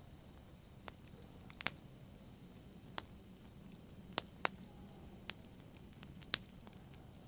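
Wood fire crackling in a fireplace: sharp, irregular pops and snaps, about nine of them, over a faint steady hiss of burning.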